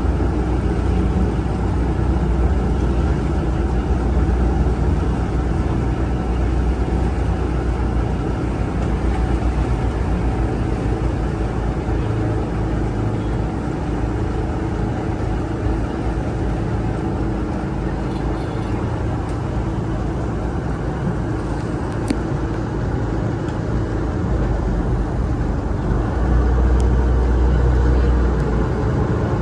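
River ferry's engine running steadily, a low rumble under a hiss of water and wind, growing louder a little before the end.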